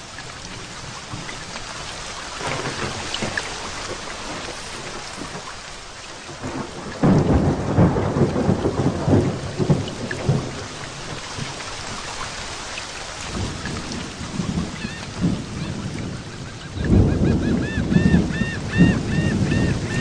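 Heavy rain falling steadily through a thunderstorm, with two loud rolls of thunder, one about seven seconds in and another about seventeen seconds in.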